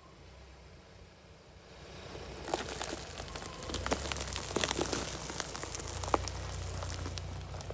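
Car tyre rolling over and crushing brittle objects, a run of crackling and crunching snaps from about two and a half seconds in, over the low hum of the car's engine running slowly.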